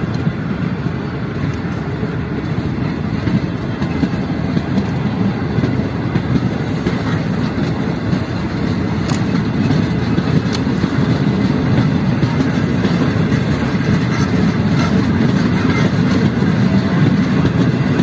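Green Line Express passenger train departing: a steady rumble of wheels on rail with occasional faint clicks, growing slightly louder as it goes.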